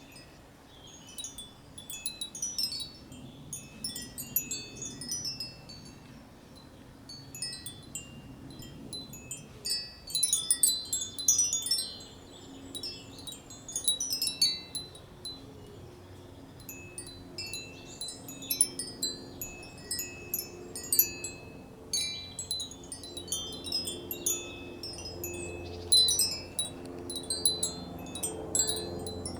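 Silver spiral wind chime, with 18 hollow silver-alloy tubes of graded length, ringing as the tubes strike their neighbours: irregular clusters of high bell-like tones, each tube a different pitch, some lively bursts and some sparse strikes.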